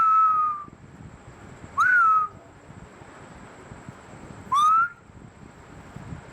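Three short whistle notes about two to three seconds apart, each sliding up quickly in pitch at its start.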